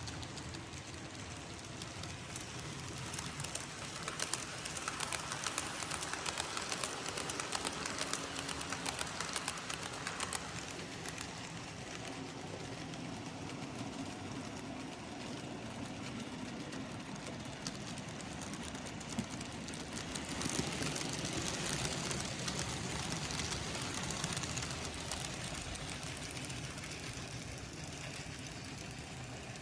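N gauge model trains running around the layout track: a steady rolling noise with rapid clicks of wheels over rail joints and points, most dense in the first third, and the sound swelling as a train passes close about two-thirds of the way in.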